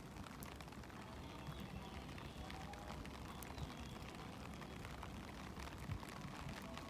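Rain falling on a wet station platform and tracks: a faint, steady hiss with scattered drip clicks.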